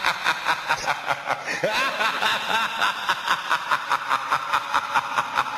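A person laughing in a steady run of short, breathy bursts, about four a second.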